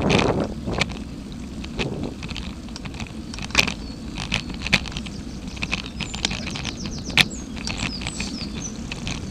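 Wind rumbling on the microphone, with irregular sharp clicks and knocks throughout; the loudest come about three and a half, four and a half and seven seconds in. A few short high chirps are heard in the last few seconds.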